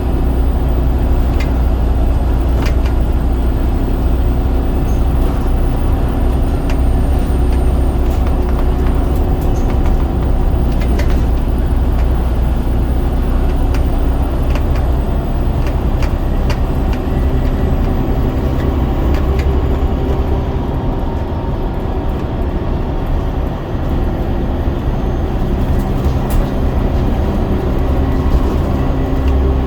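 Scania DC9 9.0-litre five-cylinder diesel engine of a double-decker bus running under load on the move, with a steady low drone and light rattles and clicks from the bodywork. The engine note eases off around two-thirds of the way through, then pulls again near the end.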